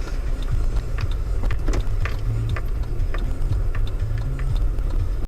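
Low, steady rumble of a motor vehicle, with one sharp crack at the very start and irregular clicks and ticks scattered through it. The sound cuts off abruptly at the end.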